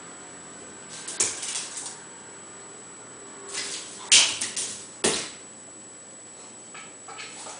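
A series of light clicks and scuffles in three short clusters, about a second in, from about three and a half to five seconds in, and once more just after five seconds; the loudest is a sharp click about four seconds in.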